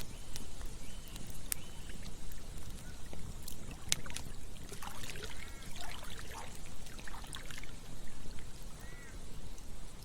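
Campfire crackling with scattered sharp pops over a steady rush of flowing water, with a few short chirping calls about halfway through and once more near the end.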